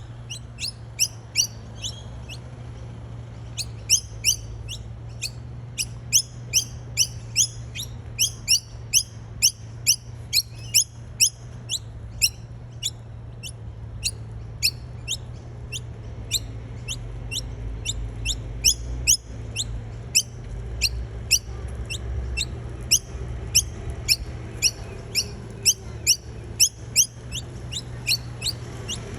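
Noisy miner giving a long run of sharp, high-pitched chip calls, about two to three a second, over a steady low hum.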